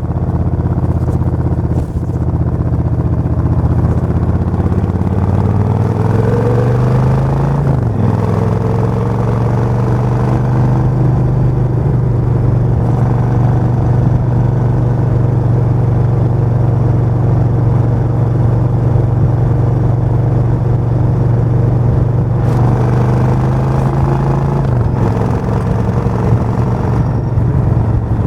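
Suzuki VS1400 Intruder's V-twin engine running. Its pitch climbs under acceleration and drops sharply about eight seconds in at a gear change, then holds steady, and dips again near the end.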